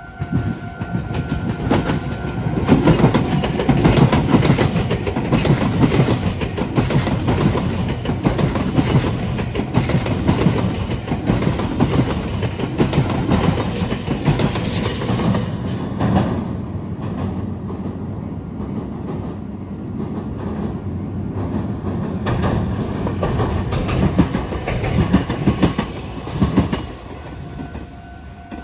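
Meitetsu electric train passing close by, wheels clattering over rail joints and the junction's points, loud for almost the whole half-minute. A level-crossing warning tone sounds at the start before the train covers it.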